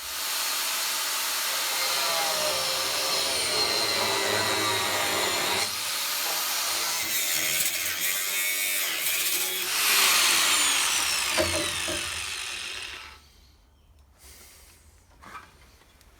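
A power tool cutting through the steel of a Land Rover Series IIA's rear chassis rail: a steady, loud cutting noise with a shifting whine. It fades off about thirteen seconds in as the tool winds down.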